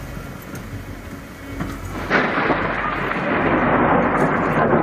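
Steady hiss of rain, then, about two seconds in, a sudden loud clap of close thunder from a lightning strike that runs on as a dense crackling rumble.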